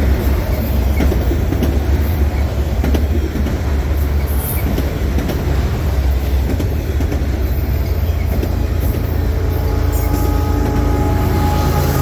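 A long freight train's cars rolling past at speed: a heavy, steady low rumble with scattered wheel clicks over the rail joints. A few steady high tones come in about two-thirds of the way through.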